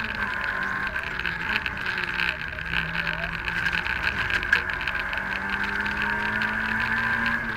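Citroën AX GTI Group N rally car's 1.4-litre four-cylinder engine working hard at speed, heard from inside the cabin, its revs rising and falling as the car is driven through a stage.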